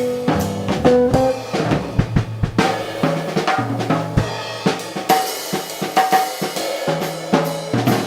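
Jazz drum kit playing busy snare and bass drum hits, with upright bass and jazz guitar notes sounding underneath.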